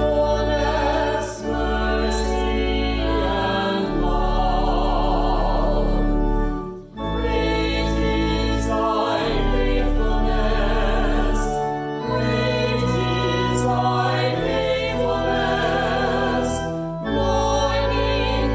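A hymn sung with instrumental accompaniment: held bass notes change every couple of seconds beneath the singing voices, with two short breaths in the music, one about a second in and a deeper one about seven seconds in.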